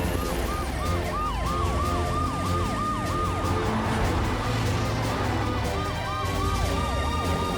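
Cartoon emergency-vehicle siren, a fast yelp that falls in pitch several times a second, over background music. The siren breaks off about halfway through and then starts again.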